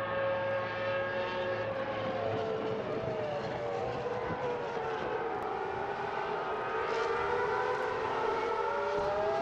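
Several Ferrari V10 Formula 1 car engines wailing at once, some notes held steady and others sliding down and then back up as the cars slow and accelerate.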